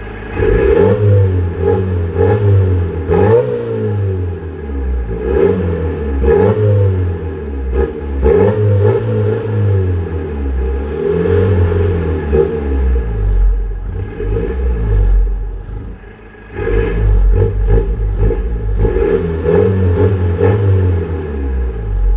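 Seat Ibiza Bocanegra's 2.0 TDI four-cylinder turbodiesel through a straight-pipe exhaust, revved again and again, the engine note climbing and falling back with each rev. There is a brief quieter lull about two-thirds of the way through before the revving picks up again.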